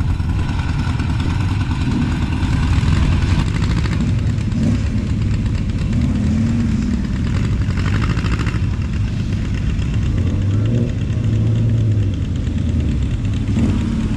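Car engines running at low speed with a steady, deep exhaust rumble, the pitch rising and falling a little as the cars move.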